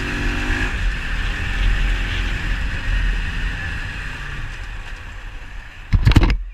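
Road vehicle on the move: a steady engine rumble and wind noise on the camera microphone. Near the end there is a short, much louder sound.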